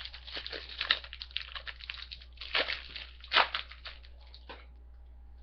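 Foil wrapper of a trading-card pack crinkling as it is handled and torn open: a run of irregular crackles with louder crunches about one, two and a half and three and a half seconds in, stopping about four and a half seconds in.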